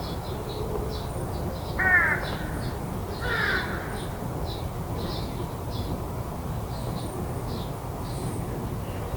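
A crow cawing twice, harsh calls about two seconds in and again a second and a half later, over faint scattered high chirps of small birds and a steady low background rumble.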